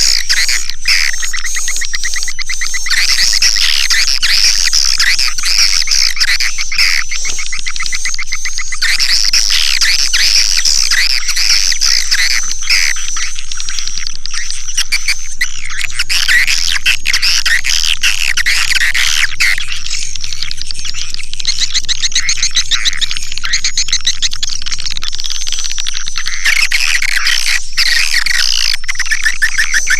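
Swiftlet lure call: a dense, unbroken chorus of high-pitched twittering and rapid chittering trills from many swiftlets, the kind of recording played to draw swiftlets into a nest house.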